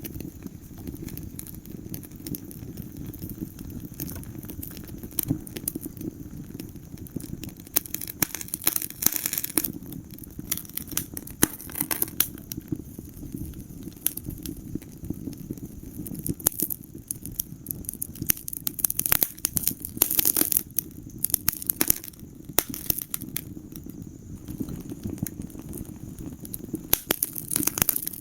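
Wood fire crackling in a fireplace: dense, irregular pops and snaps over a steady low rumble of the flames, with thicker clusters of crackles now and then.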